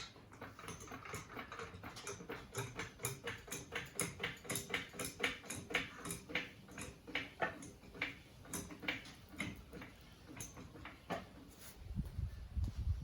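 Trolley jack being pumped to lift a car: a steady run of short clicks and knocks, about three a second, that stops about eleven seconds in. A low rumble starts near the end.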